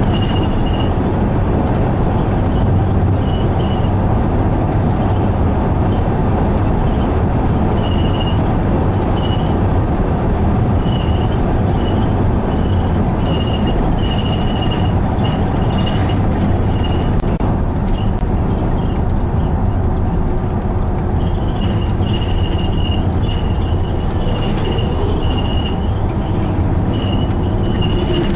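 Steady road and engine noise of a vehicle being driven, with short high-pitched chirps coming and going throughout.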